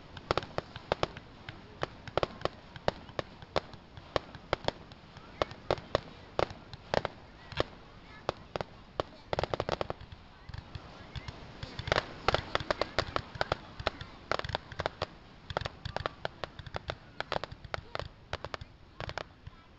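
Fireworks display: a long, irregular string of sharp bangs and crackles, densest about twelve seconds in.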